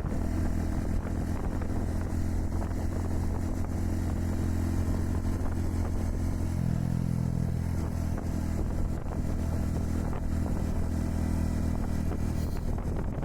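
Honda Super Cub 110's single-cylinder four-stroke engine running steadily while riding, its note changing about halfway through.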